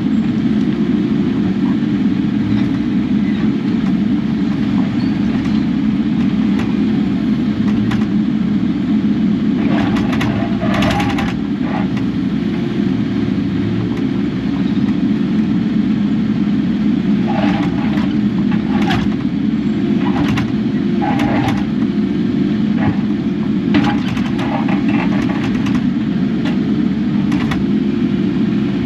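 Kubota KX080 excavator's diesel engine running steadily under work. Short bursts of higher-pitched noise come through about ten seconds in and again several times in the second half.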